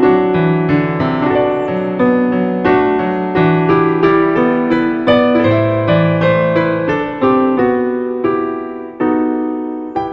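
Background piano music: a gentle, evenly paced melody with chords, each note struck and then fading.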